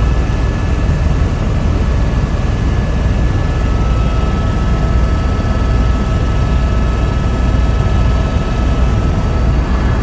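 Helicopter in flight, heard from inside the cabin: a loud, steady low drone of rotor and engine with faint high steady whine tones over it.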